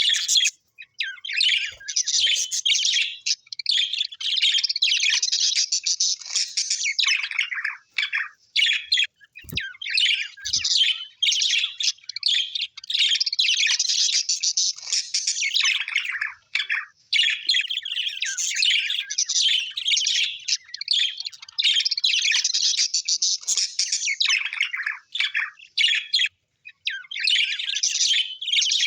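Australian birds chirping in a dense, almost unbroken stream of quick high-pitched calls, with a few short pauses.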